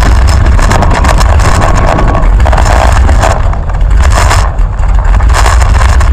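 1975 Chrysler Newport's engine running as the car drives, picked up by a roof-mounted camera with wind buffeting the microphone. The sound is loud, with a heavy low rumble, and eases briefly a little past the middle.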